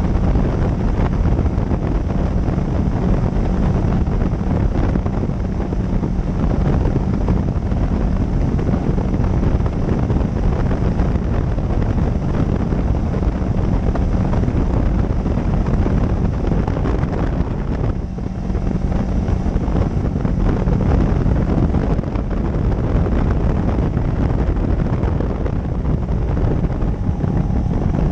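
Motorcycle riding at speed, with its engine running steadily under heavy wind buffeting on the microphone and a brief dip in loudness a little past halfway.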